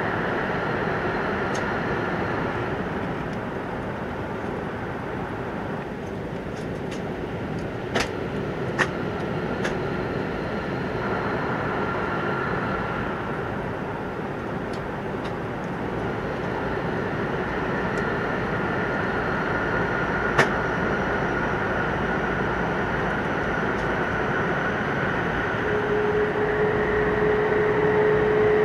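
Hokkaido Shinkansen train running at speed, heard inside the passenger car: a steady noise of wheels on rail and air rushing past. A few sharp clicks come through it, and a steady hum joins near the end.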